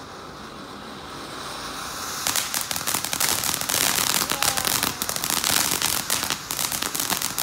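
Consumer ground-fountain firework hissing and building up, then from about two seconds in bursting into a dense, rapid crackle of many small pops.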